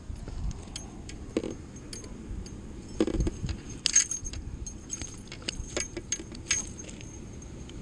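Small metal gear being handled: scattered light metallic clicks and clinks, busiest about three to four seconds in, with a couple of duller knocks among them.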